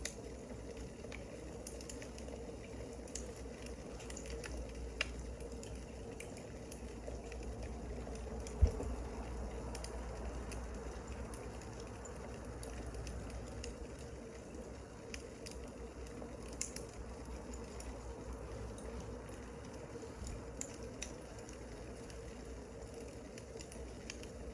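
Wood fire crackling, with scattered small pops over a steady low hum, and one louder thump about eight and a half seconds in.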